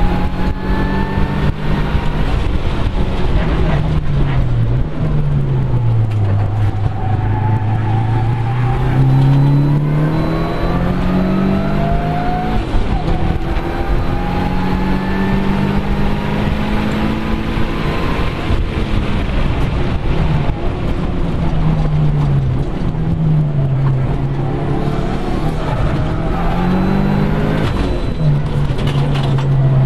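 Mitsubishi Lancer Evolution 6.5's turbocharged 2.0-litre four-cylinder engine driven hard on track. Its note climbs steadily, then drops away several times as the car speeds up and slows around the circuit, over a constant rush of road noise.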